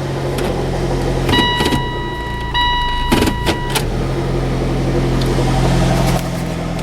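2002 Saturn Vue's 2.2-litre Ecotec four-cylinder idling high just after a cold start, having sat about four months. Partway through, a steady electronic beep sounds twice, each about a second long, along with a few clicks.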